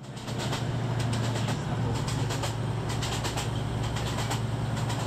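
A passenger train running, heard from inside the carriage: a steady low hum with a rushing noise over it and scattered light clicks and rattles.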